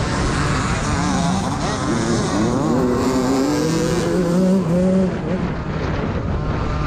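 Several motocross bike engines revving up and down as the bikes race past, their pitches rising and falling. The notes are loudest from about two to five seconds in, then ease off.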